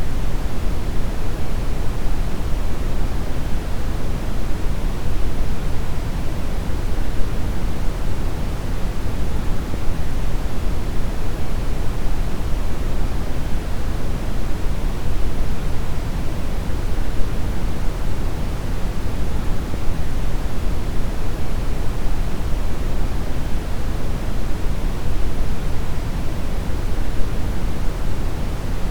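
Steady brown noise: a deep, even hiss weighted heavily toward the low end, with no changes or events.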